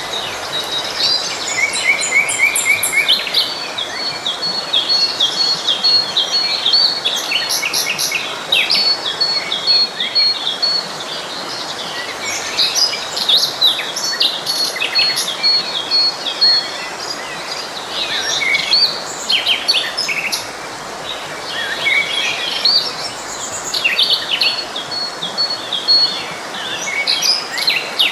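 Several birds singing and chirping together, with many short varied notes and a high, fast-repeated trill that returns again and again, over the steady rush of a flowing forest stream.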